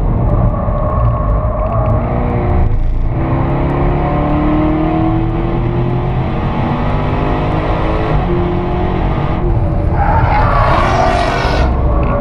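Jaguar F-Type engine heard from inside the cabin, pulling hard and changing gear, its pitch climbing between brief breaks about three and ten seconds in.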